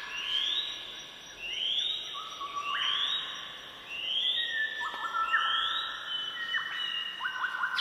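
Birdsong: whistled notes that sweep up and then hold, repeating about once a second, overlapping with lower held whistles.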